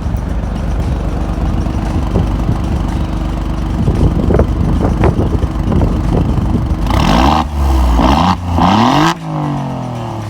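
Alfa Romeo Giulia Quadrifoglio's twin-turbo V6 idling through its exhaust, with a few sharp crackles. About seven seconds in it is revved three times in quick succession, each blip rising and dropping back, and the revs fall away after the last.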